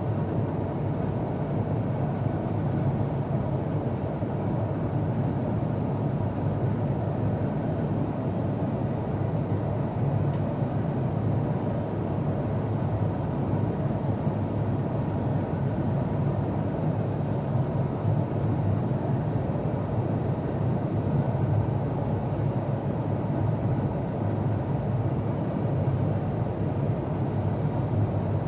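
Steady cabin noise of an Airbus A350-900 in flight, heard from inside the cabin: a constant low rush of air past the fuselage together with the drone of its Rolls-Royce Trent XWB-84 engines.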